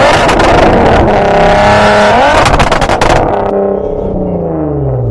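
A car accelerating hard and pulling away, its engine revving loudly and rising in pitch, then the note sliding down and the sound getting quieter from about three and a half seconds in as it drives off.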